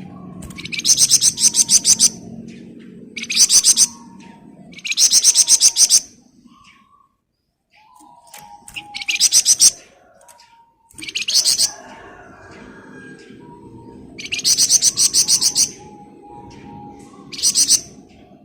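Flamboyan songbird singing in repeated bursts of very fast, dense rattling trills, the 'ngebren' song prized by bird keepers: about seven bursts of one to two seconds each, with fainter lower whistled notes between them.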